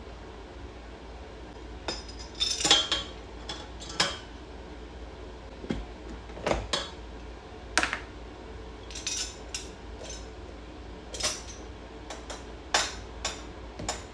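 Dishes and cutlery clinking and knocking in irregular bursts, starting about two seconds in, some strikes ringing briefly, over a low steady hum.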